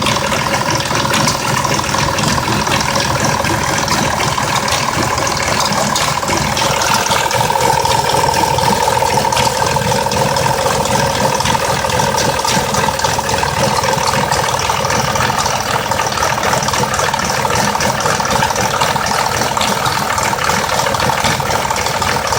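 2004 Mazda 6s 3.0-litre V6 idling roughly with a ticking rattle; a steady whine near 1 kHz grows stronger about seven seconds in. The owner thinks the rough idle could come from a failing bank 2 VVT solenoid.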